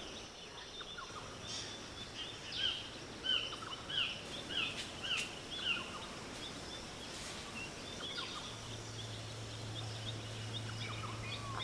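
A rainforest bird calling a series of short, falling notes, about two a second for several seconds, over faint background hiss; a low steady hum comes in later.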